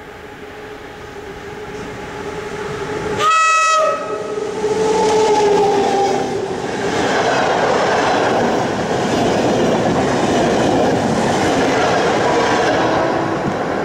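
A locomotive-hauled passenger train approaching and passing at speed. The locomotive sounds one short horn blast about three seconds in, with a whine falling in pitch as it goes by, then the coaches run past with steady wheel-and-rail noise.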